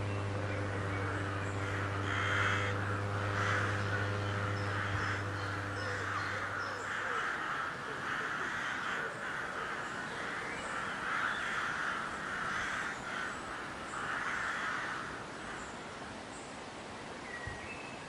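Bird giving a series of harsh calls, roughly one a second, with small birds chirping faintly higher up. A steady low hum underneath stops about seven seconds in.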